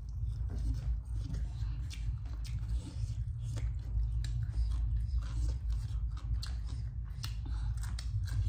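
Crispy Korean fried chicken being bitten and chewed close to the microphone: a run of sharp, irregular crunches, over a steady low hum.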